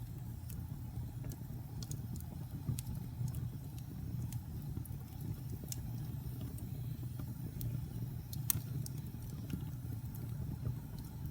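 Wood fire burning in a fireplace: a steady low roar of the flames with scattered, irregular sharp crackles and pops from the burning wood, the loudest pop about eight and a half seconds in.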